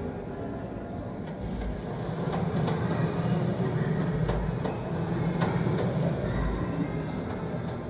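Railway train running, a steady rumble with a low hum that grows louder after about two seconds, with scattered sharp clicks and deep thuds.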